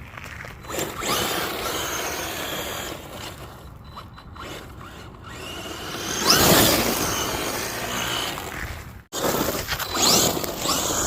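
Electric motor of a radio-controlled car whining as it is revved up and down in short runs, loudest about two-thirds of the way through, with a noisy scrabbling haze under it.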